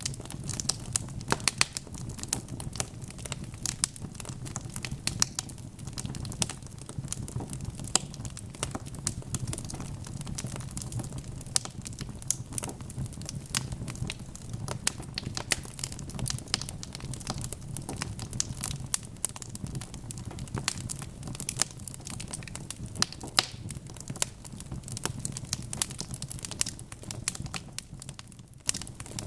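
Wood fire burning in a fireplace, logs crackling and popping irregularly over a low steady rumble of the flames.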